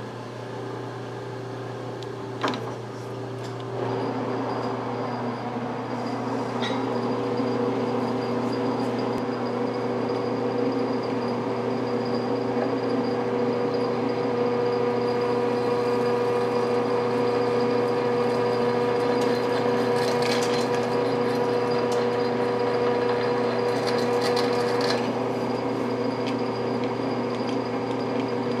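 Machine tool spindle running steadily while a drill cuts into stainless steel under steady feed pressure, a constant multi-tone machine hum. There is a sharp click about two and a half seconds in, and the sound grows louder about a second later as the cut takes hold.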